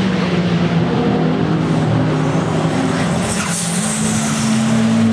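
Racing saloon and sports car engines running hard on the circuit, several engine notes overlapping at once.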